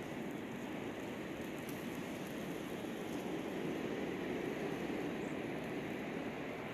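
Blizzard wind blowing, a steady rushing noise that swells a little midway.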